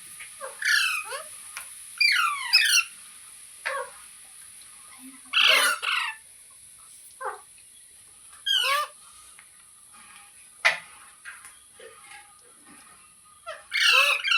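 Pet parrot screeching and squawking: about eight short, harsh calls with sliding, mostly falling pitch, coming every second or two at irregular intervals.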